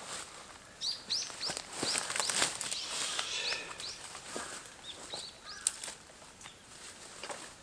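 A small bird chirping: a quick series of short, high notes over a few seconds, with scattered clicks and rustles close by.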